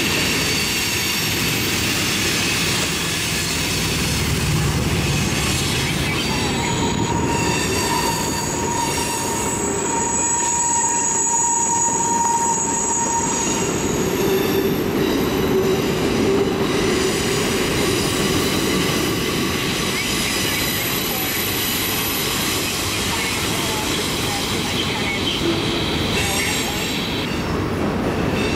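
Freight cars rolling past on curved track: a steady rumble of steel wheels on rail, with high-pitched wheel squeal that comes and goes, strongest from about six to fourteen seconds in, then a lower squeal tone for a few seconds after.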